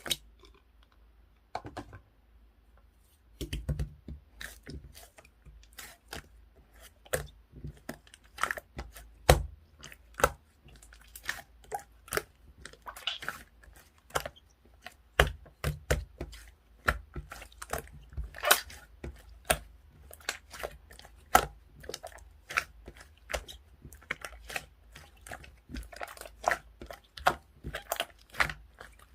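Clear slime being squeezed, poked and stretched by hand, giving off irregular sharp clicking pops and crackles, several a second.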